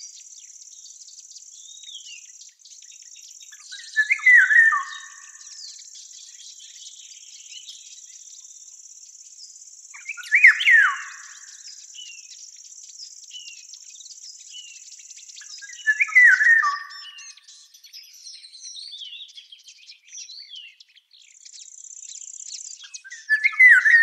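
A songbird sings the same short phrase four times, about every six seconds, over a steady high insect trill, with faint scattered bird chirps between the phrases.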